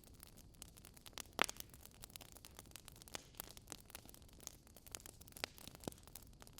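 Fire burning in a fireplace, crackling with irregular small pops and snaps; the sharpest pop comes about a second and a half in, with a few more near the end.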